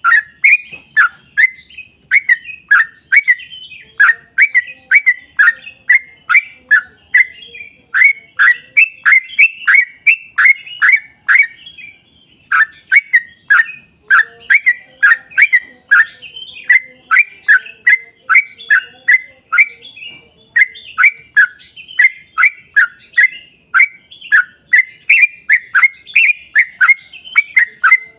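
Yellow-vented bulbul (trucukan) singing a long, fast run of short notes that slide downward, about three a second, with a brief pause about twelve seconds in.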